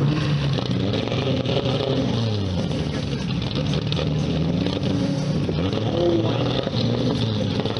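Toyota Supra's engine running at low speed, its revs rising and falling several times as it creeps forward, with crowd noise around it.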